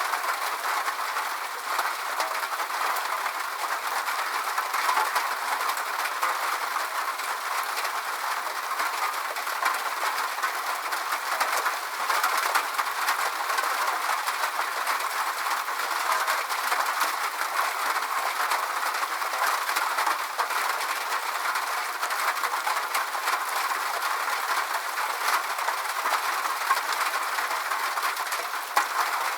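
Steady rain: a dense hiss full of tiny drop ticks, unchanging in level.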